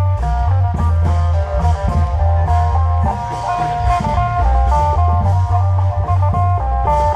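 Isan klong yao procession band music: a fast plucked-string melody over heavy bass and steady drumming.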